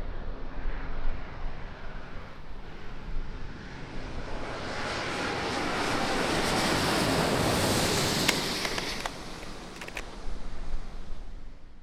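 Airbus A350 jet airliner passing by: a steady engine roar that swells to a peak about two-thirds of the way through and then fades away, with some wind rumble on the microphone.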